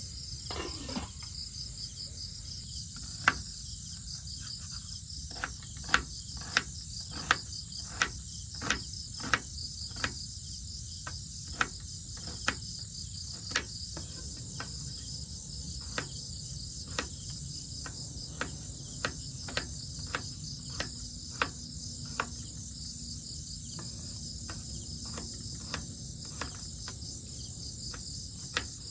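Crickets and other insects chirring steadily, with a series of sharp knocks at irregular intervals, at times one or two a second. A short falling tone about a second in.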